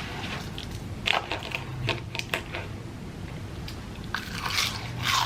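Mouth-close crunching and chewing of fried onion rings: irregular crackly crunches that come in two clusters, one about a second in and one near the end.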